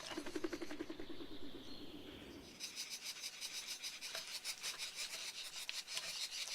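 Black woodpecker nestlings begging in the nest hole: a fast, continuous rasping churr. A lower pulsed note runs through the first two and a half seconds, then gives way to quicker, higher rasping.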